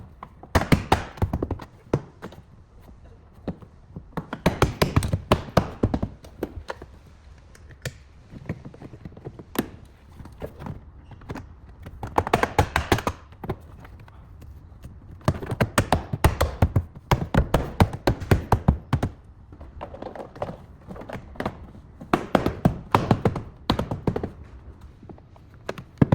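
Bursts of rapid light tapping, each burst a second or two long, repeating every few seconds.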